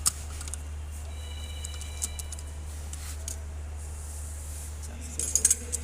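Scattered sharp metallic clicks and clinks of hand tools and loosened parts on an engine block being dismantled, including a faint ring near the start and a quick run of clicks near the end, over a steady low hum.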